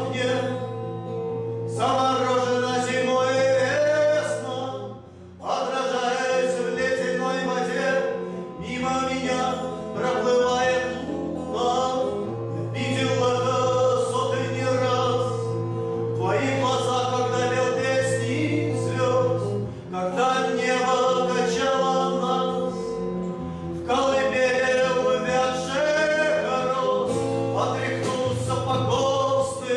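Live acoustic rock song: a man singing long held notes over guitar accompaniment, with a brief drop in level about five seconds in.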